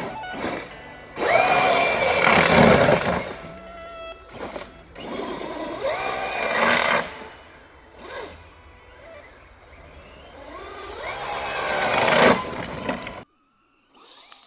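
Brushless electric motors of ARRMA Senton 1/10 short-course RC trucks whining in three surges as they accelerate, with rising pitch, over background music. Everything cuts off abruptly near the end.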